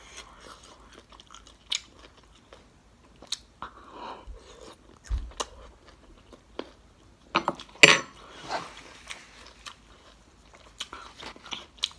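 Close-miked chewing of broccoli in sauce: scattered wet mouth clicks and crunches, with a louder cluster about eight seconds in.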